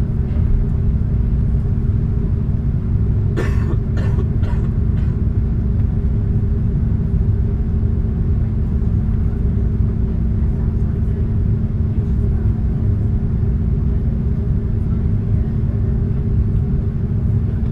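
Steady low rumble and hum of an Airbus A330 cabin on the ground, its engines running at taxi power. A few short sharp sounds, clicks or a cough, come about three and a half seconds in.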